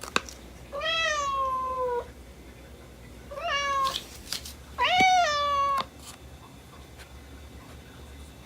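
A domestic cat meows three times: a long call with a falling pitch, a shorter one, then another long one. A sharp click comes just before the first meow.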